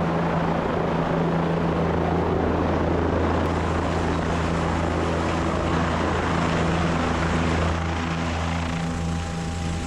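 Helicopter running steadily in flight, a steady low rotor hum under a loud rushing noise. About eight seconds in the rushing eases and a set of steady humming tones comes through more clearly.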